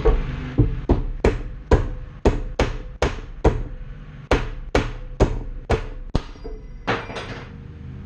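A hammer strikes a wrench in a run of about fifteen sharp blows, roughly two a second, with a brief ringing after some blows. The blows are meant to bounce the wrench and shock a tight nut loose.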